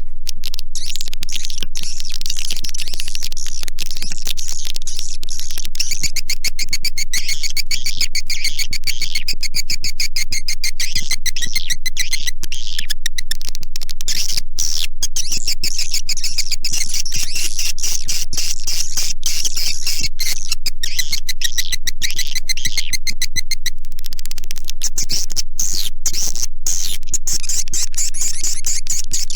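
Recorded calls of edible-nest swiftlets: a dense, unbroken chatter of rapid high chirps and clicks, a lure call of the kind played to draw swiftlets into a nesting house.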